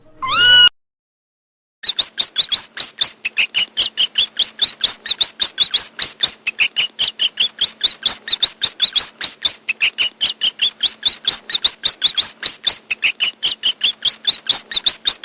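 Mouse squeaking: a long run of rapid, high-pitched squeaks, about five a second. It is preceded by the tail of a cat's meow.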